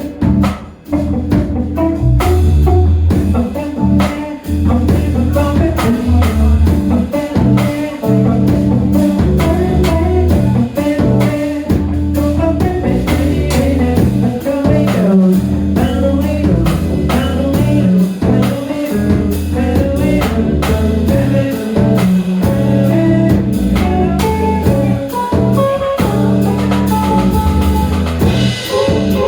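Band playing an instrumental passage: drum kit keeping a steady beat under guitar and keyboard.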